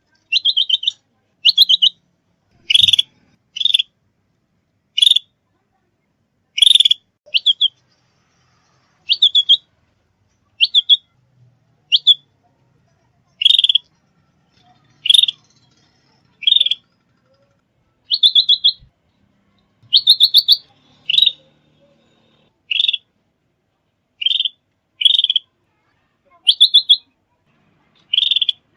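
A songbird giving short, sharp chirping calls, some broken into a quick stutter, repeated about once a second with silence between.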